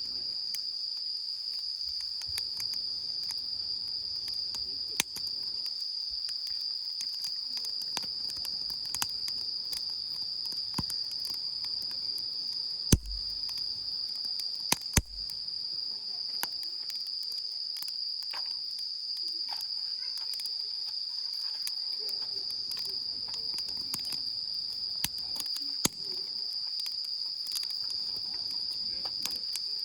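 Steady, unbroken chorus of crickets or other singing insects, one high-pitched trill, with scattered sharp clicks and knocks now and then, two stronger ones about halfway through.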